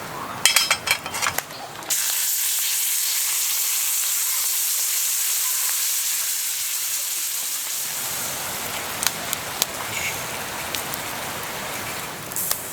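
Food sizzling on a hot griddle: a steady high hiss that starts suddenly about two seconds in after a few sharp crackles, easing a little after six seconds and giving way to fuller noise with scattered pops.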